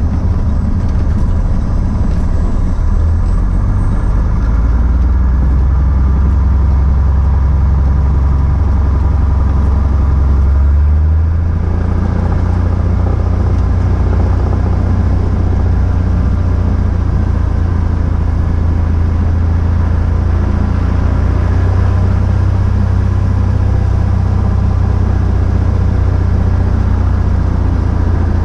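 The 1954 Cessna 170B's six-cylinder piston engine running at low power after landing on a grass strip: a steady low drone that steps in engine speed a few times in the first dozen seconds, then holds steady.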